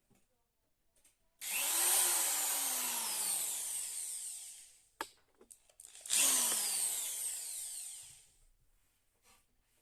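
Power drill run in two bursts of a few seconds each, drilling a hole through the wood under a bathroom sink; each burst starts at full speed and its pitch falls steadily as it slows.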